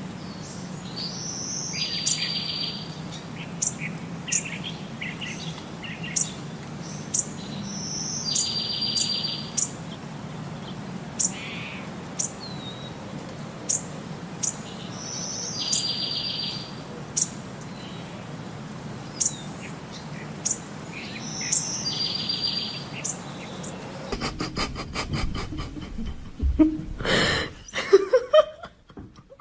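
A bird singing the same phrase over and over, about every seven seconds: a short whistle followed by a buzzy trill, with sharp high chirps in between and a steady low hum underneath. Near the end the sound cuts to a rapid run of clicks and a few louder knocks.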